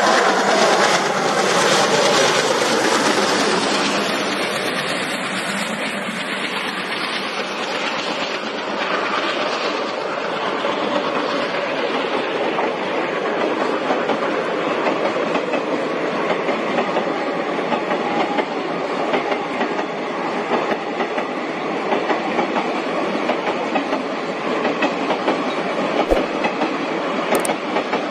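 A passenger train hauled by twin ALCO diesel locomotives running past, its wheels clickety-clacking over the rail joints. The locomotives' engine sound is loudest in the first few seconds, and after that the coaches roll by steadily.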